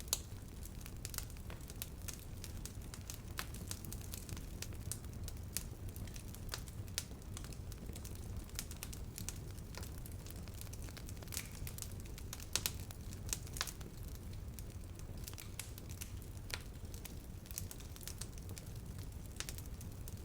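Campfire crackling: irregular sharp pops and snaps of burning wood, a few of them louder, over a steady low rumble.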